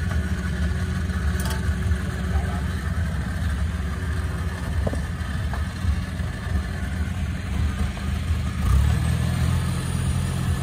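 Diesel engine of a tracked rice combine harvester running steadily; about nine seconds in its note changes as the engine picks up revs.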